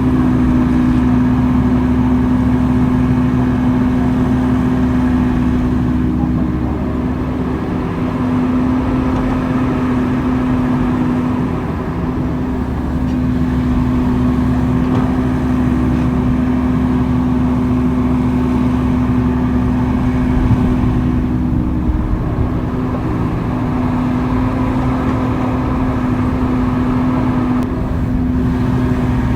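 Diesel engine of heavy earthmoving machinery running steadily under work, a constant drone with a low rumble beneath.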